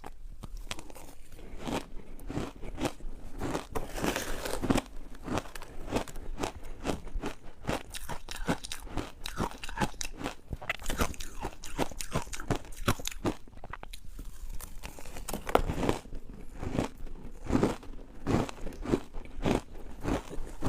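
Ice being bitten and chewed: a rapid, irregular run of crunches and cracks.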